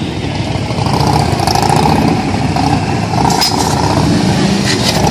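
Harley-Davidson police motorcycles' V-twin engines running at low speed, a continuous low rumble, with a few brief sharper sounds in the second half.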